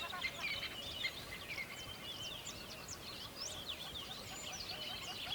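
Many wild birds chirping and singing at once, a dense chorus of short, quick, gliding whistles and twitters, over a low steady rush of river water.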